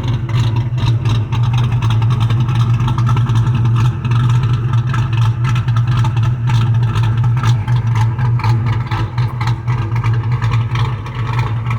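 Ford Mustang GT's cammed V8 idling through a loud exhaust with a choppy, uneven lope from the aggressive camshaft. The engine note holds steady with no revving.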